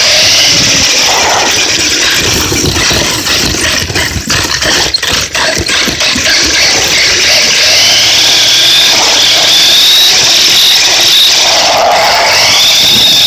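Radio-controlled cars driving hard: a high motor whine rising and falling in pitch over loud steady noise, with a few knocks about four to five seconds in.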